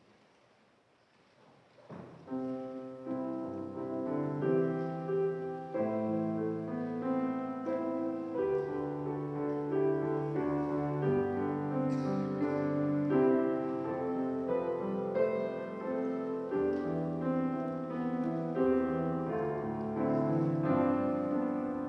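Instrumental keyboard music: a slow piece of held chords begins about two seconds in, after a brief near-quiet pause.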